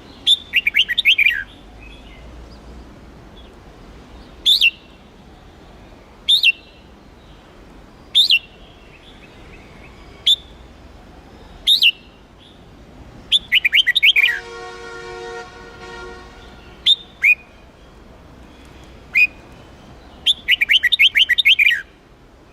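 Red-whiskered bulbul singing: short sharp calls every couple of seconds, with quick runs of rapid notes near the start, midway and near the end. Midway a steady, even-pitched tone lasts about two seconds.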